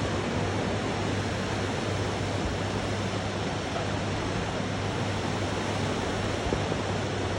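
Rushing river water, a steady loud roar of whitewater.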